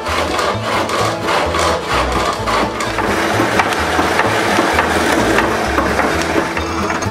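A turning tool cutting into wood spinning on a treadle lathe: a steady, rough scraping hiss that swells and fades in irregular pulses.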